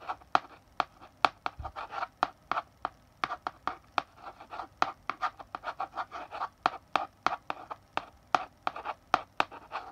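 Chalk writing on a blackboard: quick sharp taps as the chalk strikes the board, between short scratchy strokes, several a second in an uneven rhythm.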